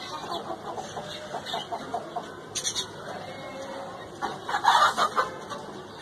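A bird calling: a quick run of short calls in the first two seconds, then a louder, longer call about four and a half seconds in.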